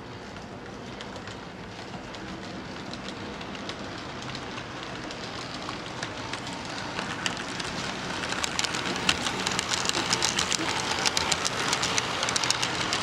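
HO-scale model train rolling along the track, getting steadily louder as it comes closer, with rapid clicking of the wheels over the rail joints growing dense from about seven seconds in.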